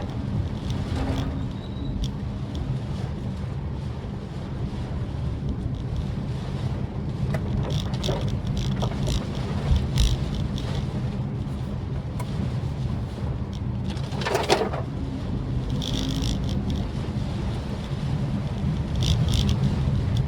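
Maruti Suzuki Swift Dzire driving: a steady low engine and road rumble, with a few scattered clicks and a brief louder sound about fourteen seconds in.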